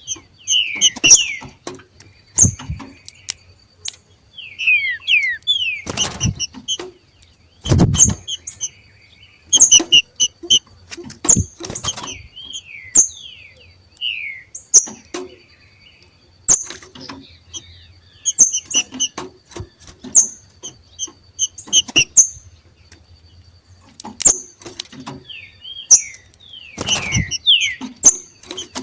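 Green-winged saltators (trinca-ferro) giving their 'macheado': rapid, sharp repeated chip notes mixed with short slurred whistles, in clusters with brief gaps. A few thumps are mixed in, the loudest about eight seconds in and near the end.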